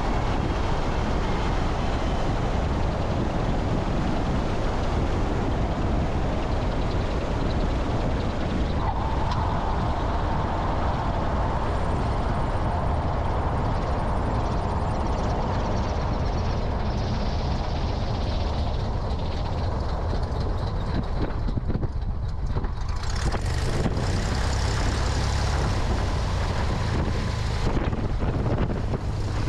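Cessna 172's propeller engine running steadily, mixed with wind rushing over a wing-mounted camera. A higher note joins the sound for several seconds about nine seconds in.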